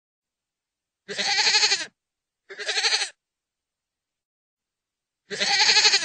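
Goat bleating: three separate calls, the first and last longer (under a second each) and a shorter one in between, with silence between them.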